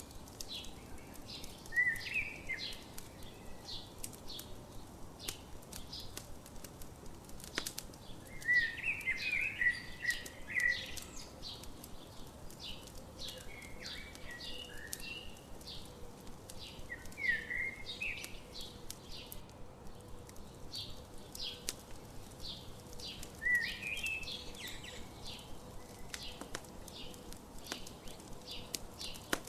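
Campfire crackling with frequent small pops, while a songbird sings short phrases about five times.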